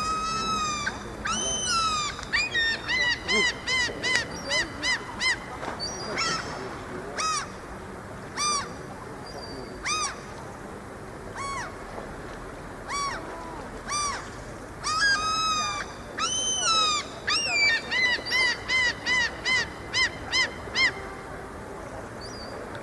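Gulls calling: many short, arched cries over a steady background hiss. Around three seconds in and again near the end, the cries come in quick runs of about three a second.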